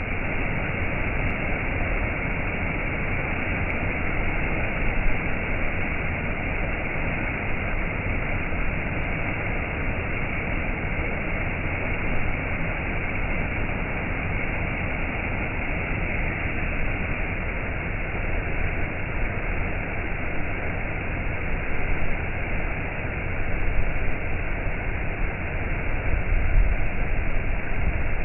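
Waterfall: a steady, unbroken rush of falling water, sounding dull with the high end cut off.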